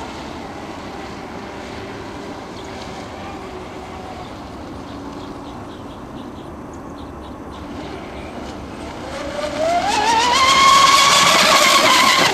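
Electric RC racing catamaran's twin Castle 1520 brushless motors whining at speed. The whine rises quickly in pitch about nine seconds in, then holds high and loud.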